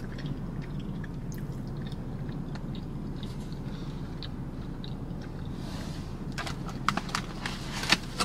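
A person chewing a mouthful of fried takeout food with mouth closed: soft, wet clicks and squelches over a steady low hum. Near the end come a few sharper clicks and crackles.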